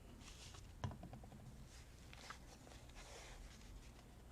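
Faint rustling of hands handling craft materials on a table, with one light tap about a second in.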